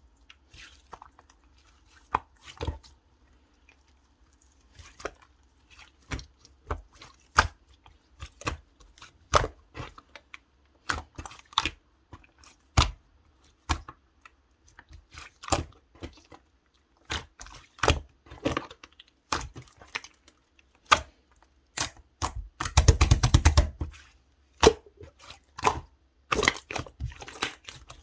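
Clay-mixed slime being pressed, stretched and poked by hand, giving irregular sticky clicks and pops, with a fast run of crackling pops for about two seconds near the end.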